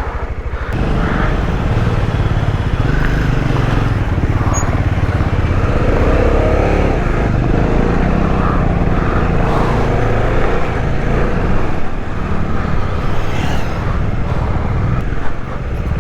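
Bajaj Dominar 400's single-cylinder engine running steadily as the motorcycle rides on, its note rising and falling briefly around the middle.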